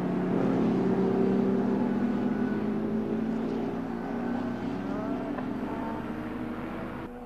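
Engines of 1950s sports racing cars at speed on the circuit, with pitch rising and falling as cars pass. The sound is loudest early on and fades away toward the end.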